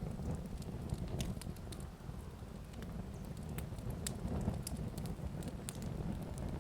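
Fire burning with a steady low rumble and irregular sharp crackles and pops.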